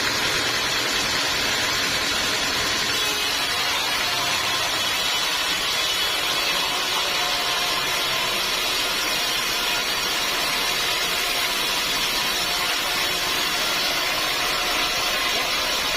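Sawmill machinery running steadily, a continuous loud mechanical noise with a hissing high edge and no breaks.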